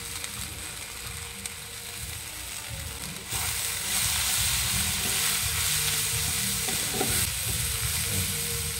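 Okra and grated coconut sizzling in a frying pan. About three seconds in, a spatula starts stirring it and the sizzle grows louder.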